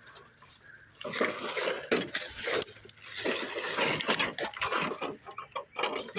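Irregular scraping and rustling of soil and grass being cleared by hand from a buried metal sign, starting about a second in.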